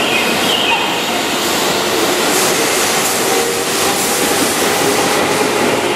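Keihan Electric Railway commuter train running along the platform close by: steady wheel and motor noise, with a brief high squeal about half a second in.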